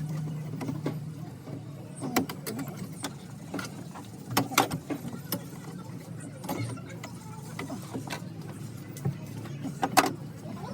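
Scattered sharp metal clinks and knocks from hand work in the van's engine bay, over a steady low hum.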